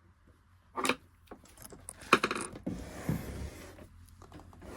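Handling noise as a sewing machine is turned around on a table: a knock, a short clatter of hard clicks, then a couple of seconds of rubbing and scraping.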